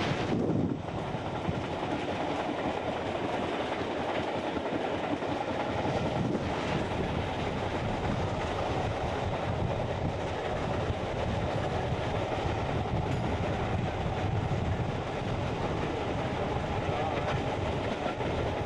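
Coaches of a steam-hauled passenger train running along the line, heard from a window on the train: a steady running noise of wheels on the rails.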